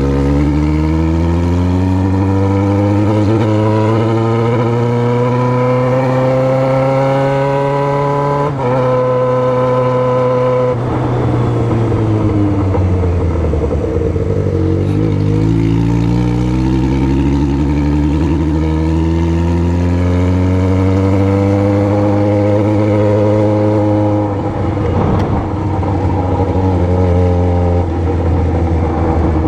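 Yamaha XJ6's inline-four engine through a 4-into-1 straight-pipe exhaust, ridden on the road: the revs climb steadily for about eight seconds, hold briefly, drop away as it slows, then climb again and ease off near the end.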